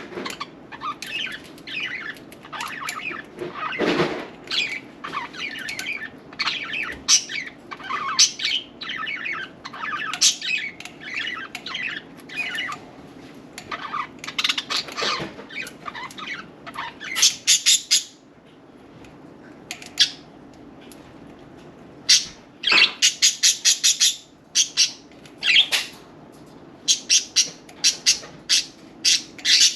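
Pet budgerigars chattering, with a busy stream of warbling chirps and squawks. It is broken by a short lull past the middle and by several runs of loud, rapid, sharp bursts.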